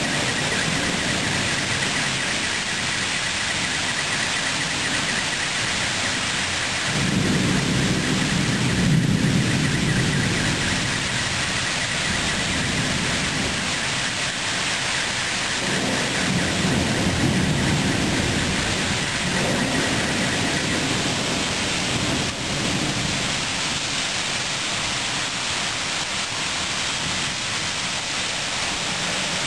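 Thunderstorm: steady heavy rain hiss with two long rolls of thunder, one starting about seven seconds in and another around sixteen seconds.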